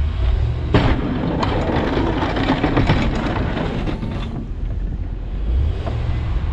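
Wind buffeting a camera mounted on a truck's roof while the truck drives, over a low road rumble. From about a second in to about four seconds in, a louder rushing hiss with crackling rises over it.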